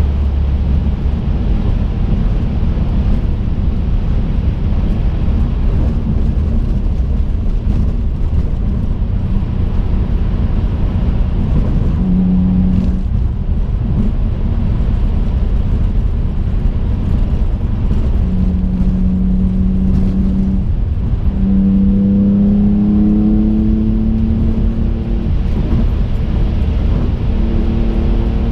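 Twin-turbocharged 2005 Infiniti G35 coupe's V6 engine and road noise while driving, heard from inside the car as a steady low rumble. The engine's tone comes and goes over it, and once rises slightly in pitch for a few seconds past the middle.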